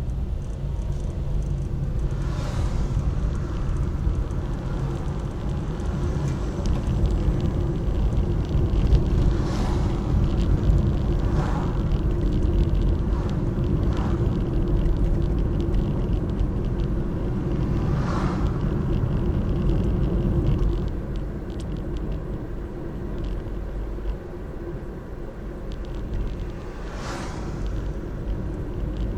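Steady low rumble of road vehicles, with about six brief swishes of vehicles going by.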